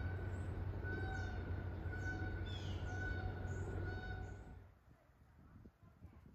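Birds chirping and calling over a low steady hum: short pitched calls about once a second and quick falling chirps, fading out about four and a half seconds in.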